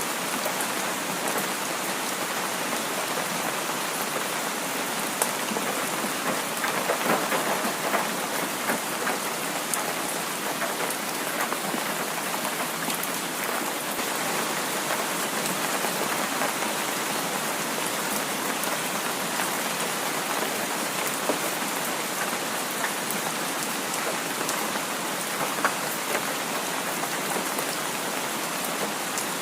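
Heavy rain falling steadily, with scattered drops ticking through the hiss and a short louder swell about seven seconds in.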